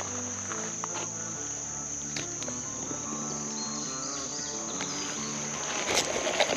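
Steady high-pitched drone of insects singing, over soft background music with a slow stepping melody. A short falling sweep comes right at the end.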